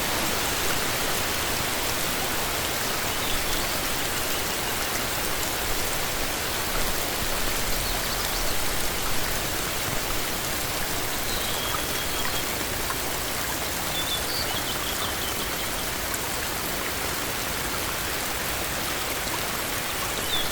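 Heavy rain pouring steadily on forest foliage, a dense even hiss of drops, with a few faint high chirps now and then.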